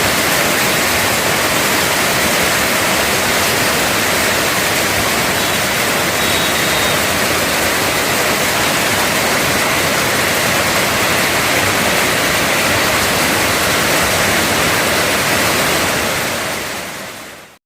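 Heavy rain pouring down in a steady, loud hiss that fades out just before the end.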